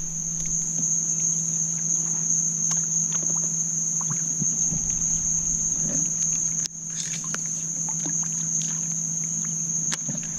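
Steady high-pitched drone of marsh insects such as crickets, over a low steady hum, with faint scattered ticks and small water sounds around a paddleboard or kayak.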